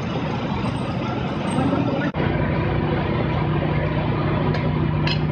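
Steady low hum of a running engine over dense outdoor noise. The sound breaks off abruptly about two seconds in and resumes with the hum steadier and more prominent.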